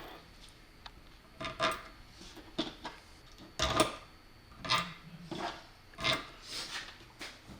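Short scraping and clinking sounds of 1/4-inch bolts being handled and coated with anti-seize, a stroke about every second, the loudest a little before halfway.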